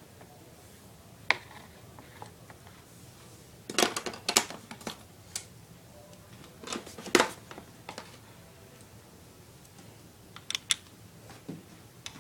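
Hard plastic pieces of an Our Generation toy ice cream truck set being handled and set down: scattered clicks and light knocks, with short bursts of clatter about four and seven seconds in.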